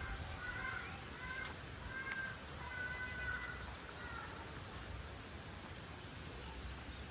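Birds calling: a run of short, clear whistled calls in the first four seconds or so, then fading out, over a steady low outdoor rumble.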